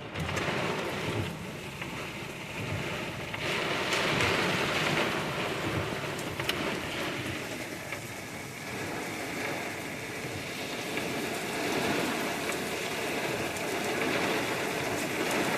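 Heavy rain driven by gusty wind pelting a car's roof and windows, a dense steady patter that swells louder a few seconds in and again near the end.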